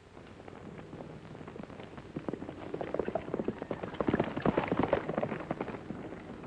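Horses galloping. The rapid hoofbeats grow louder to a peak about four to five seconds in, then fade.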